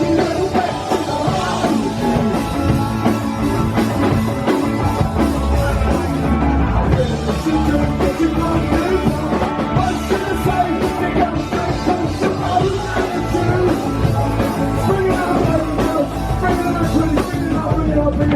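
Live rock band playing a song, with drums and a singing voice over the band.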